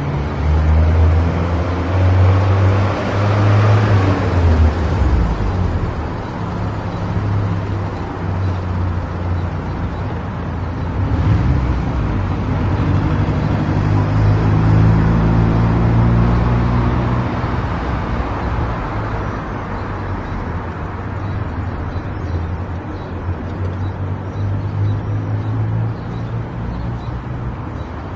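Car driving at highway speed: a steady low engine drone with tyre and road noise.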